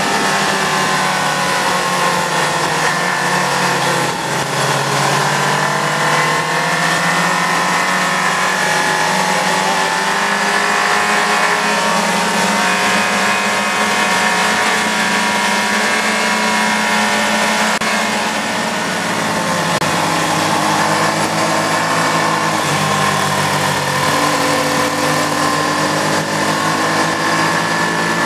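Sport motorcycle engine running under way at steady high revs, its pitch rising and falling with the throttle through the bends and dropping lower about two-thirds through, under a steady rush of wind.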